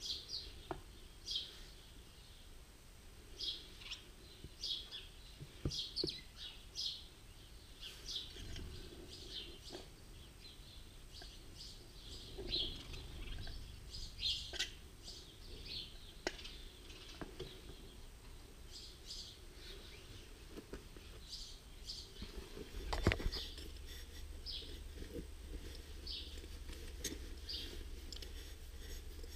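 Small birds chirping over and over in short high calls. There are occasional metal clinks from the tractor's oil centrifuge parts being handled, and a louder knock about three-quarters of the way through.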